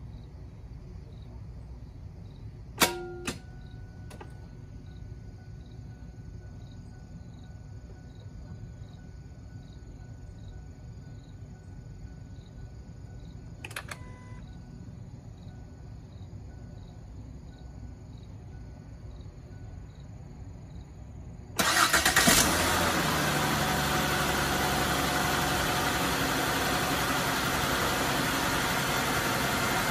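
A sharp click about three seconds in, with a few fainter clicks after it. Some twenty seconds later the Ford Freestyle's freshly overhauled starter cranks the engine briefly, the engine catches at once and settles into a steady idle: the repaired starter and solenoid work.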